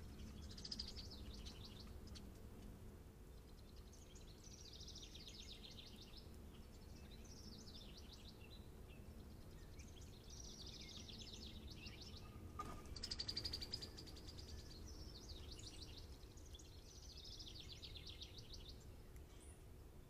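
Songbird singing short, rapid trilled phrases over and over, faint, with a louder burst about two-thirds of the way through.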